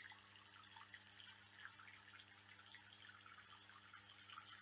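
Faint recorded rain sound: a steady hiss of many small drops, with a low steady hum beneath it.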